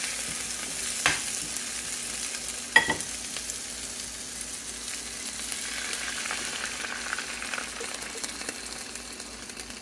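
Dried chiles, tomato, onion and garlic sizzling in a little oil in a small frying pan, a steady frying hiss with two sharp knocks about one and three seconds in. Near the end broth is poured into the pan from a carton.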